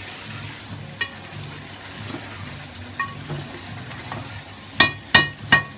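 Chicken karahi sizzling as it fries in a metal pot and is stirred. The spoon clanks against the pot with a ringing sound about once a second, then three times in quick succession, louder, near the end.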